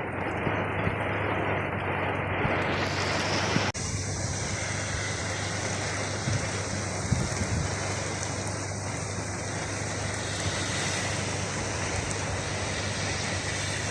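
Steady rain, an even hiss. It changes abruptly about four seconds in to a brighter, fuller hiss.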